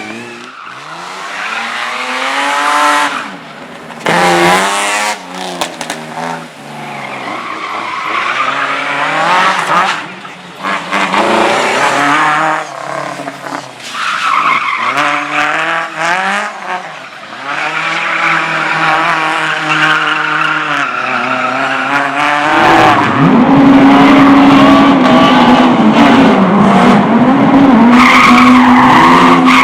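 Competition car engine on a slalom course, revving up and falling away again and again as it accelerates and brakes between gates, with tyre squeal. About 23 seconds in it becomes much louder and holds a high, steady pitch close to the microphone.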